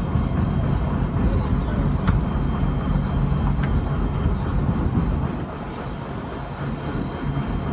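Fishing trawler's diesel engine running with a steady low hum, dropping somewhat quieter from about five to seven seconds in.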